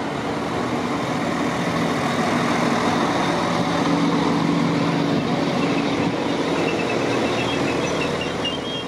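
Northern Class 195 diesel multiple unit running in alongside the platform: diesel engine drone over wheel and rail noise. It is loudest about four seconds in, with faint high squeals near the end.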